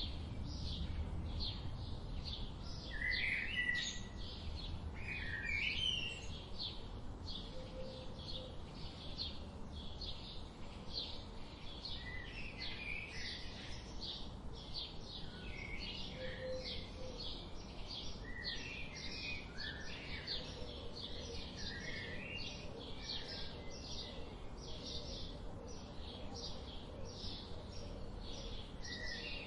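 Wild birds chirping and singing together: a steady run of short, high chirps from several birds, with occasional warbled phrases in between over a low outdoor rumble.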